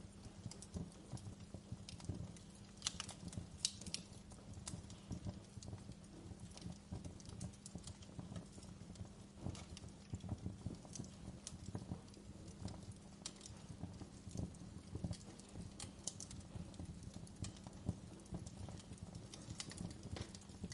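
Wood fire crackling in a fireplace: a dense, steady run of small pops and ticks, with a few sharper, louder snaps about three to four seconds in.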